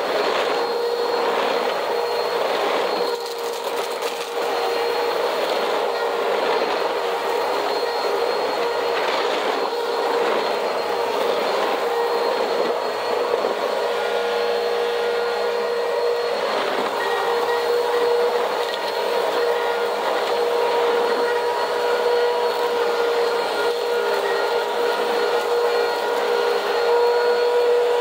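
Vacuum cleaner running steadily over a cement floor: a steady motor whine over the hiss of rushing air, with a few brief crackles along the way.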